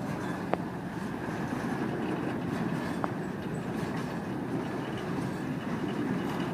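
Freight cars of a slow-moving Florida East Coast Railway train rolling past on the rails, a steady rumble of wheels and cars. There is a sharp click about half a second in and a fainter one about three seconds in.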